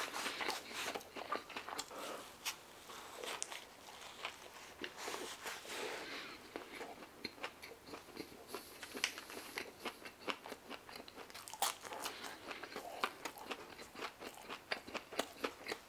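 A person chewing a big mouthful of falafel wrap: a steady run of small, irregular crunches and wet mouth clicks.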